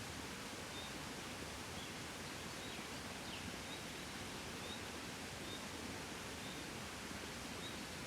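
Gentle wind blowing steadily, a soft even rush, with faint short high chirps recurring about once a second in the background.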